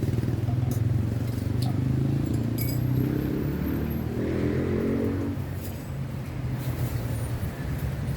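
Road traffic: a motor vehicle engine running with a steady low hum, and a vehicle passing that grows louder and then fades out about five and a half seconds in.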